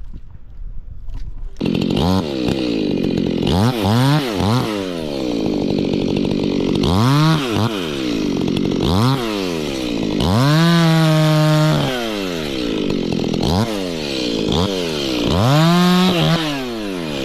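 Stihl two-stroke chainsaw comes in sharply about a second and a half in, then idles and is revved up and dropped back over and over. About ten times the pitch climbs and falls, and twice it is held high for about a second.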